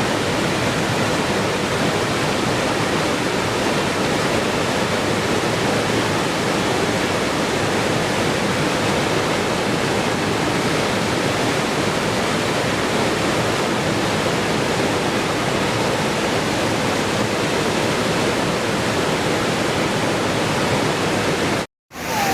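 Steady, even rush of running water used as white noise. It cuts out completely for a fraction of a second near the end.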